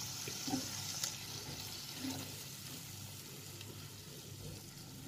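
Onion and spice masala sizzling steadily in oil with a little water in a frying pan, as it is slow-fried (koshano). A few soft knocks come from a spatula stirring it.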